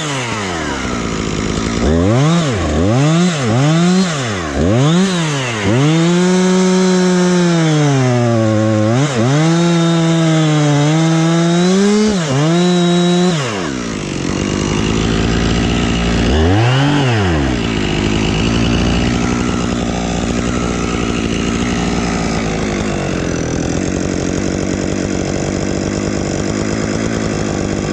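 Husqvarna chainsaw blipped several times, then held at full throttle for about seven seconds, its pitch sagging and recovering as it cuts wood under load. It then drops back to idle, with one more quick rev, and idles steadily.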